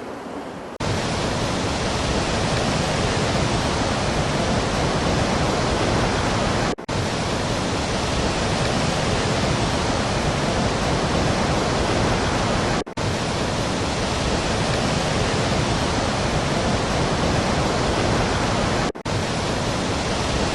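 Loud, steady rushing noise, even from low to high. It cuts out for a split second about every six seconds, like a looped track, and stops abruptly at the end.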